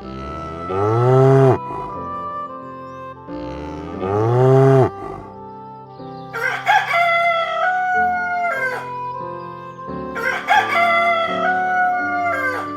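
A rooster crowing twice in the second half, each crow a run of notes ending in a long held note that falls away at the end. Before it come two short, low, rising-and-falling animal calls.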